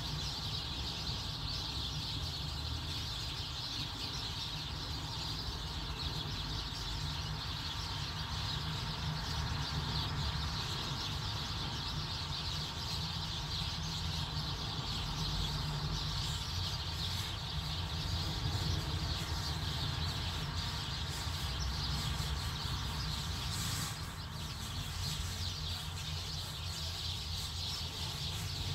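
Steady background of birds chirping, continuous and even in level.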